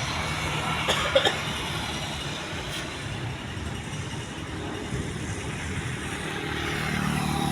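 Steady engine hum and rushing air inside a Boeing 737-800 cabin, with two sharp clicks about a second in. The noise grows slightly louder near the end.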